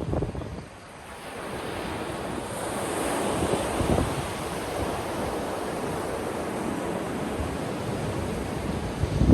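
Sea waves breaking on a beach: a wash of surf swells up about a second in and then hisses steadily. Wind rumbles on the microphone near the start and again at the end.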